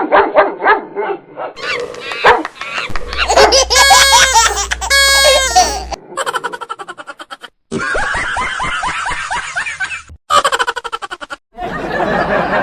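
Laughter sound effects spliced together into a montage, several separate clips joined by abrupt cuts.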